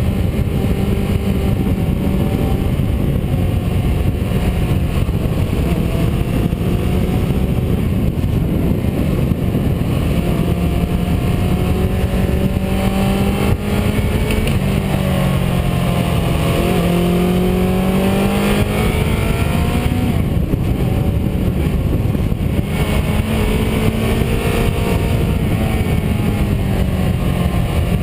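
Onboard sound of a car driving a winding mountain road: the engine rises and falls in pitch again and again as it accelerates and eases off through the bends, over constant road and wind noise.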